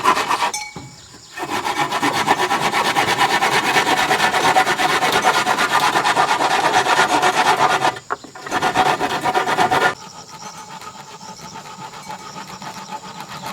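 Fast, continuous rubbing and scraping, as of a tool working a surface, with short breaks about a second in and about eight seconds in. It drops to a quieter scraping at about ten seconds.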